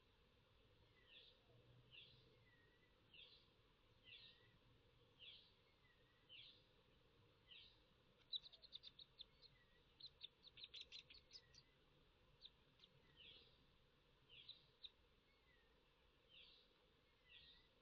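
Faint bird chirps, a short sweeping call repeated about once a second, with a quick burst of rapid chirps about halfway through.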